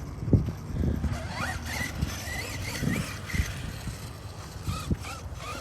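Arma Mojave 6S RC truck running over dirt on a 4S pack: the electric brushless motor's whine wavers up and down with the throttle in two spells, with a few short knocks as the truck hits bumps.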